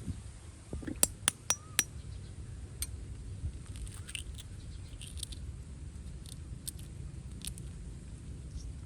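Cooking utensils clicking and clinking: four sharp clicks a second or so in, two of them with a short high ring, then lighter scattered taps, over a steady low rumble.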